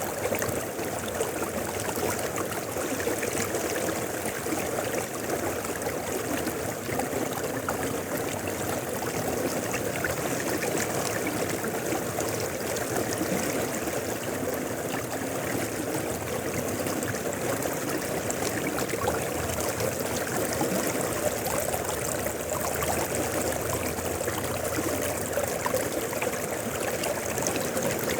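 A mountain river flowing: a steady, unbroken rush of water.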